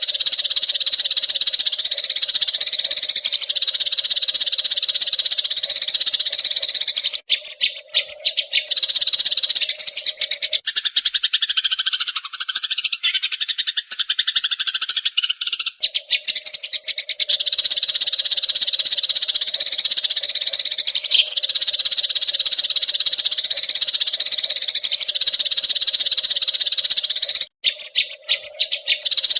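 Wild Eurasian tree sparrows chirping in a dense, unbroken stream of high calls, with short gaps about seven and twenty-seven seconds in. From about ten to sixteen seconds in the chirping drops lower and becomes more varied.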